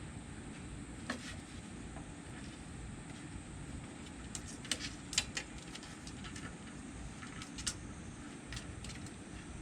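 Kittens playing: scattered light clicks and taps of paws and claws, several bunched together in the middle, over a steady low background hum.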